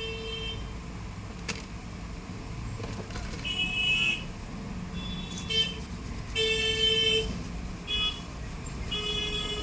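Road traffic running, with several short vehicle horn toots, the longest about 6.5 seconds in and another starting about 9 seconds in.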